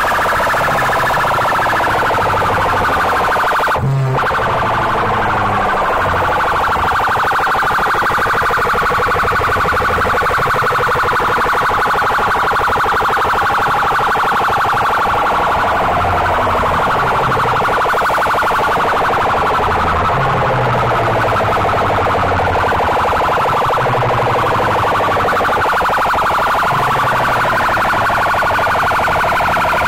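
Siren-like electronic wail played very loud through DJ speaker boxes, continuous and wavering, over a low bass line that repeats in stepped phrases every few seconds.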